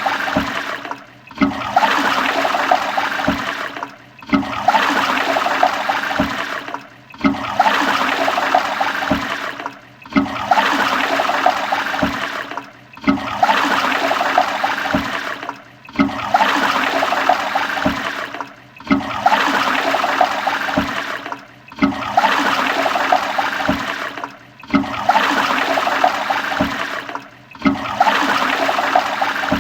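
Toilet flushing: a rush of water that starts loud and tails off, repeated about every three seconds in an unbroken string of flushes.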